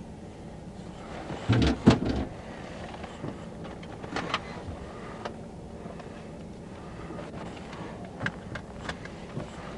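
Steady low hum of an idling vehicle, with a quick cluster of knocks and thumps about two seconds in and a few lighter clicks later: someone handling things in or around the car, possibly a door or window.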